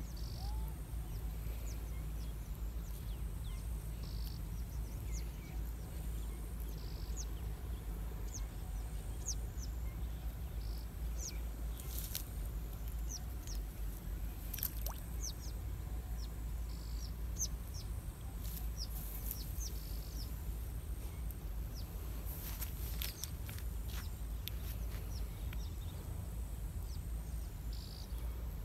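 Birds chirping in short, high calls scattered throughout, over a steady low rumble of outdoor background noise.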